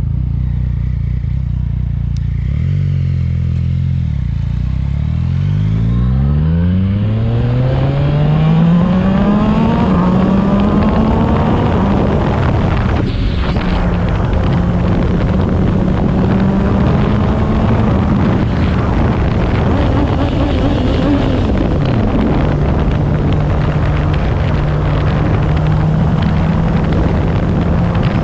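Yamaha MT-09 three-cylinder engine through a Yoshimura exhaust, running steadily at first, then pulling hard with its pitch rising over several seconds. It then holds a steady pitch, dips once briefly about three-quarters of the way through and picks back up.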